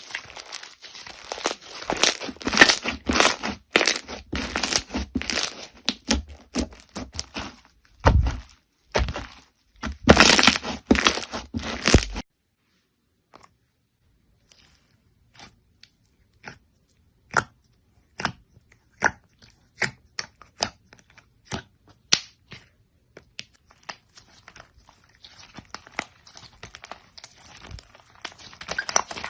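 Crunchy slime being worked, with dense crackling and crunching for about twelve seconds. It then thins to scattered single crackles and pops, and dense crackling returns near the end.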